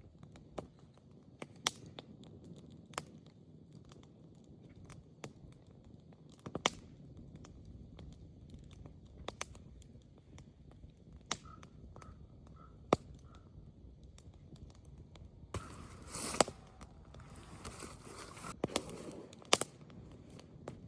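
Wood fire crackling, with irregular sharp pops over a low rumble; a few seconds of louder hiss near the end.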